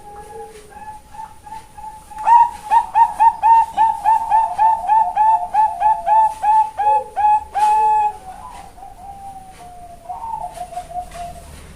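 Bangkok-strain zebra dove (perkutut) cooing: a few soft notes, then from about two seconds in a loud, long run of quick repeated coo notes, about three a second, that ends near eight seconds, followed by softer trailing notes.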